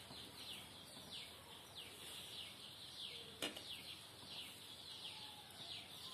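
Faint bird calls in the background: a steady series of short chirps, each sliding downward in pitch, about two a second. A single faint tap comes about three and a half seconds in.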